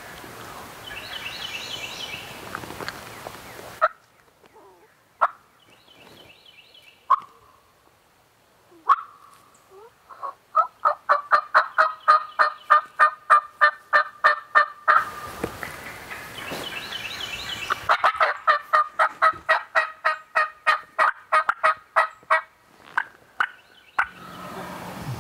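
Bird calls: a few single calls, then two long, fast runs of loud, evenly repeated notes, about five or six a second, each run lasting several seconds.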